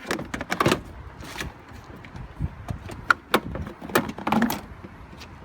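Irregular knocks, clicks and scrapes of a Porsche 911's plastic intake air filter housing being worked loose and pulled out of the engine bay.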